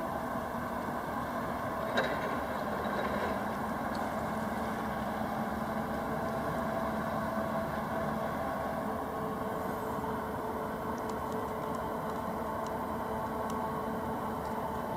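Steady engine hum of a departing cruise ship, a constant drone with several held tones. A single short knock about two seconds in.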